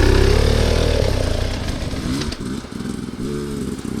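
Dirt bike engine running hard at first, then backing off and revving in short rising-and-falling blips from about three seconds in, with some clatter over rough ground.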